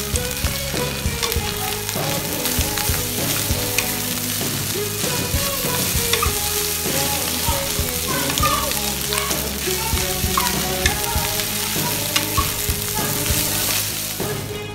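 Fried rice with winged beans sizzling in a wok as it is stirred and turned with a wooden spatula. There are frequent short clicks and scrapes of the spatula against the pan.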